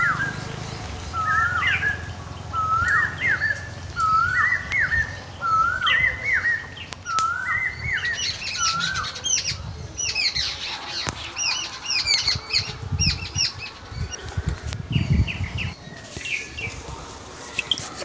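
Birds calling: a short hooked call repeated about once a second, then quicker, higher-pitched chirps in a burst from about eight seconds in.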